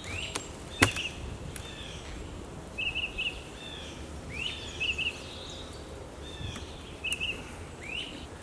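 A songbird singing the same short phrase over and over, a rising note followed by two or three quick clipped notes, about every one and a half to two seconds. A single sharp click sounds a little under a second in.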